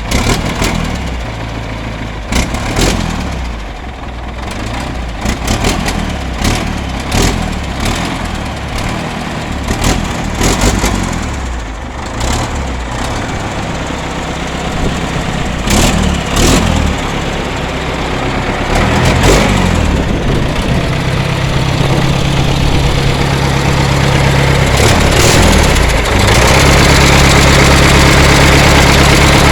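Caterpillar 950C wheel loader's diesel engine running, with scattered clanks and knocks over the first half. About 26 seconds in it speeds up and holds at a higher, louder steady note.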